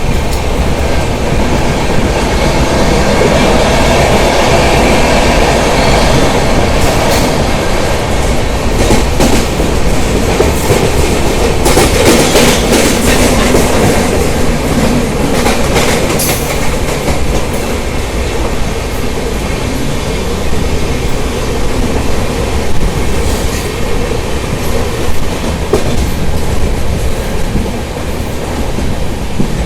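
Mumbai suburban local train running, heard from on board: a loud, steady rumble with bursts of wheel clatter over the rail joints, heaviest about halfway through.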